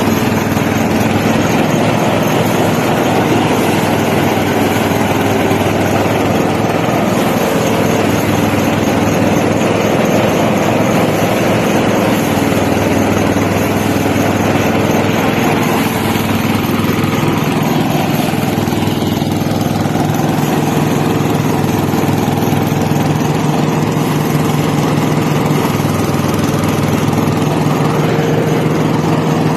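A small engine running steadily, its pitch shifting slightly about halfway through.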